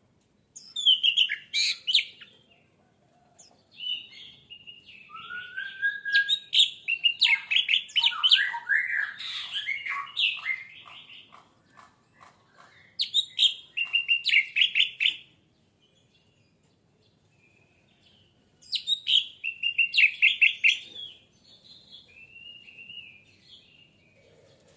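Orange-headed thrush singing in loud phrases of rapid, high notes. There are four main bursts with pauses of a few seconds between them, and softer notes near the end.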